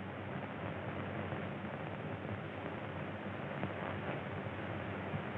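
Steady hiss and low hum of an early sound-film soundtrack, with no distinct sound events.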